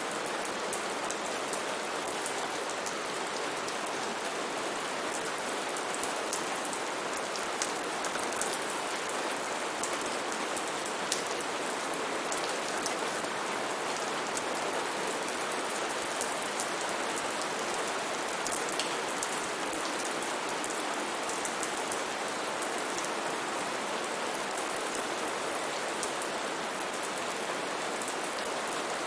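Steady rain falling, an even hiss with many small drops ticking on surfaces close by.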